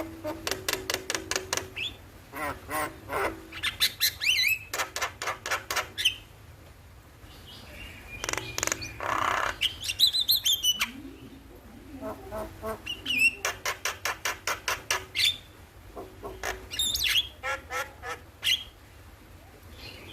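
Javan myna (jalak kebo) calling: bursts of rapid, repeated harsh notes several a second, broken by short pauses, with a longer rasping screech near the middle.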